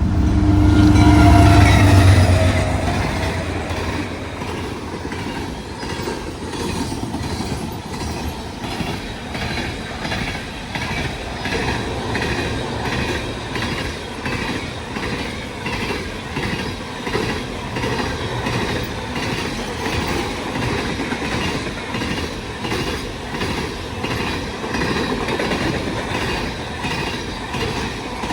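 Freight train of oil tank cars passing close by. A loud low rumble peaks about two seconds in with its pitch falling as the head of the train goes past. Then comes a steady, rhythmic clickety-clack of wheels over the rail joints as the tank cars roll by.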